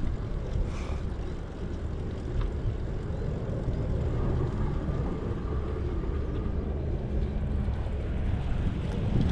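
Steady low rumble of wind buffeting the microphone, mixed with bicycle tyres rolling along the path, during a bike ride.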